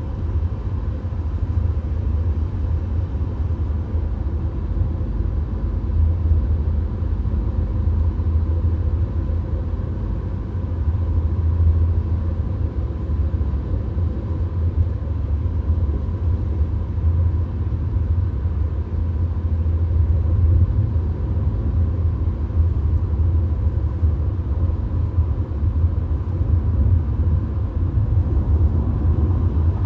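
Steady low road rumble heard inside a VW Golf's cabin at highway speed: tyre and engine noise with no breaks or changes.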